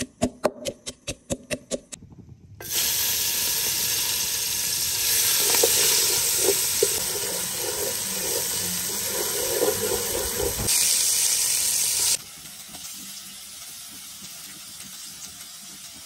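A wooden pestle pounding garlic and coriander in a stone mortar, about three quick knocks a second. From about three seconds in comes loud sizzling as the green paste fries in hot oil and is stirred in the pan. Near the end it drops to quieter sizzling of chicken pieces frying.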